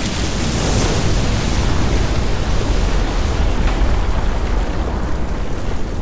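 Sound-designed meteor-storm ambience: a dense, continuous rumble of fireballs and impacts with a hissing wash over it, the hiss brightest about a second in.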